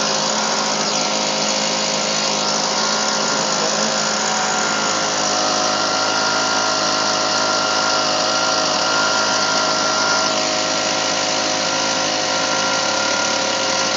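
Husqvarna 125B leaf blower's small two-stroke engine running steadily on half choke, warming up just after a cold start.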